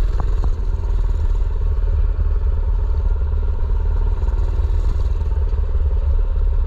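A mini bike's small engine running steadily while riding, with heavy low rumble on the microphone and a couple of sharp knocks in the first second.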